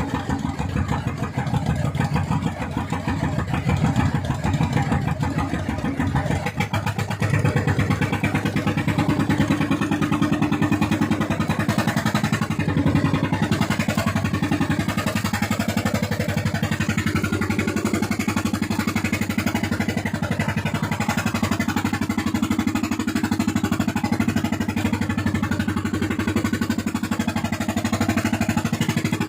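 Fishing boat's engine running hard at full throttle, with a steady fast firing beat that gets a little louder about seven seconds in and then holds.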